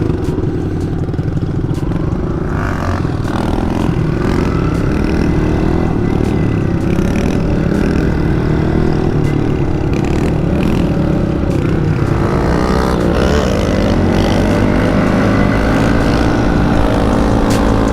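Mini bike engine running under way, its pitch rising and falling with the throttle; about twelve seconds in it revs up and down in quick swoops.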